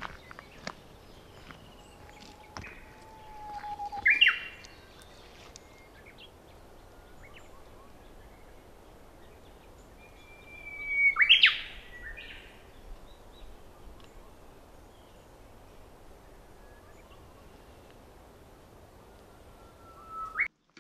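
A songbird singing three times over a faint outdoor hiss. Each phrase is a drawn-out whistle ending in a sharp, louder note, the loudest at about four and eleven seconds in and a shorter one near the end.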